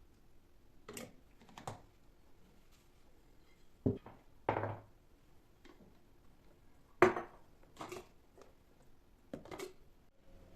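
Scattered knocks and clatters of kitchen dishes and utensils being handled, about seven in all, the loudest about seven seconds in.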